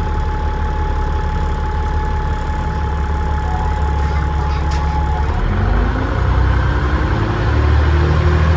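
Dennis Trident double-decker bus engine running with a steady high turbo whistle; about five seconds in the whistle drops away and the engine note rises and gets a little louder as the bus accelerates.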